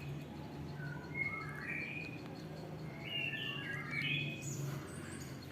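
A songbird singing a melodious song of short whistled notes that step up and down in pitch, in two phrases: one about a second in, and a longer one around three to four and a half seconds.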